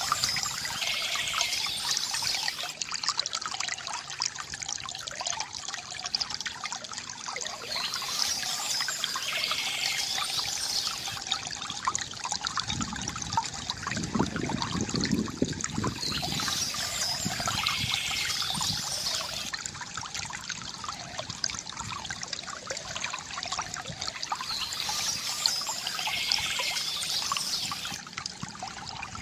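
Water trickling and gurgling steadily from a bamboo fountain, with birds chirping in short bouts that repeat about every eight seconds. A brief low rumble comes near the middle.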